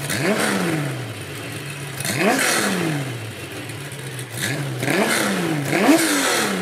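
Porsche 911's air-cooled flat-six idling and blipped five times: each rev rises sharply and falls back to idle, the last three in quick succession near the end.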